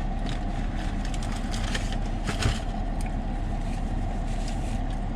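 Steady low rumble of an idling car engine, with scattered small crackling clicks and one louder knock about two and a half seconds in.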